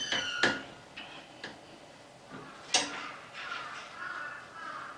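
Metal tools and brake caliper parts clinking and tapping, with a few sharp clicks and brief metallic ringing; the loudest click comes a little past halfway.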